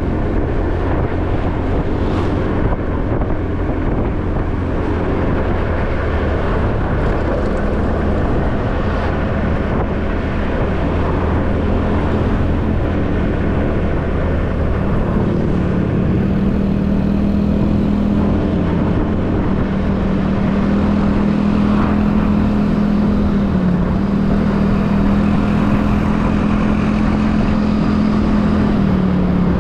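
Motorbike engine running while riding, with road and wind noise on the microphone; its hum settles into a steady note about halfway through and dips briefly twice near the end.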